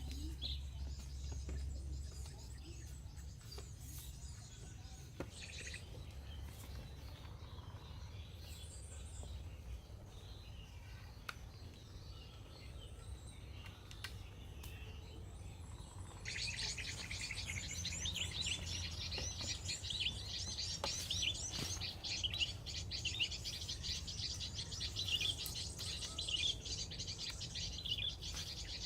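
Small birds chirping in woodland: scattered calls at first, then a dense run of rapid chirping starting a little past halfway. A low steady rumble and a few sharp clicks sit underneath.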